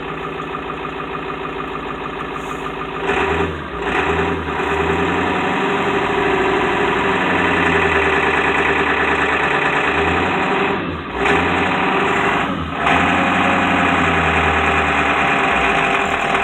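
1994 Ford F450's diesel engine idling, then running louder and faster from about three seconds in. The sound drops off briefly a few times before picking up again.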